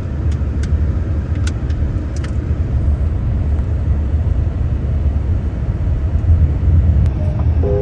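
Steady low rumble of road and engine noise inside a moving car, with a few light clicks in the first couple of seconds.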